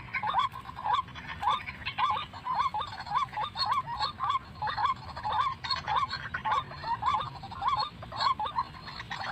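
White-breasted waterhen (ruak-ruak) calls: a steady run of short rising notes, about two a second.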